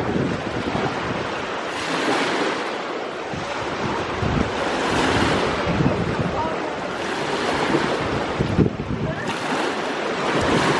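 Sea waves breaking and washing on the shore, swelling and falling back every few seconds, with wind buffeting the microphone.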